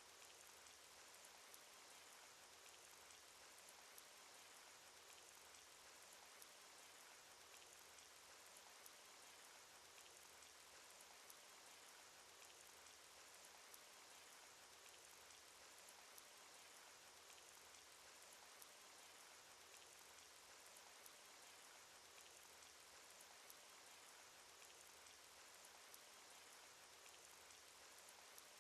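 Cartoon rain sound effect: a faint, steady hiss of falling rain with many small raindrop ticks scattered through it.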